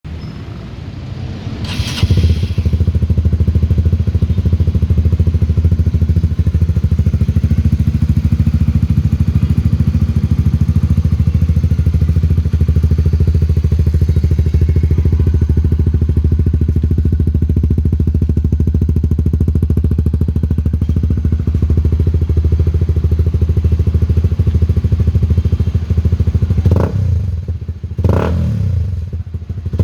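Honda CBR150R single-cylinder engine running through an aftermarket Akrapovic full-system exhaust. It comes up sharply about two seconds in, settles into a steady idle, and gets two quick throttle blips near the end.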